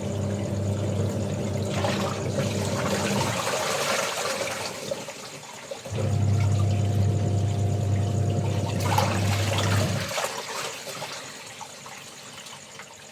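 Washing machine in its wash cycle: the motor hums in spells of about four seconds with pauses between, churning the laundry and water, which slosh and splash.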